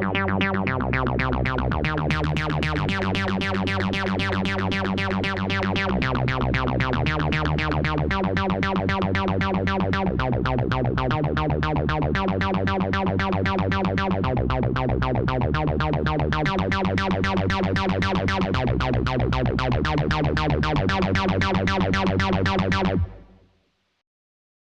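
Analog polyphonic synthesizer playing a fast repeating sequenced pattern over low bass notes that change every second or two. It stops about 23 seconds in, with a short release into silence.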